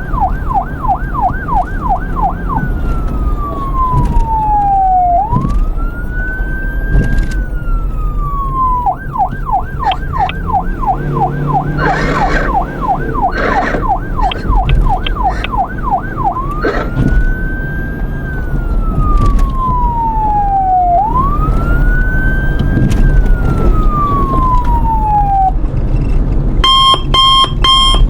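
Electronic siren switching between a fast warbling yelp and a slow wail that rises and falls over several seconds, cycling twice. Near the end a rapid repeating electronic beeping alarm starts.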